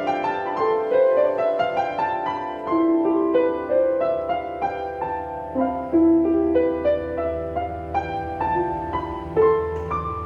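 Solo piano improvisation: a flowing run of notes in the middle register, struck in quick succession and left to ring into one another.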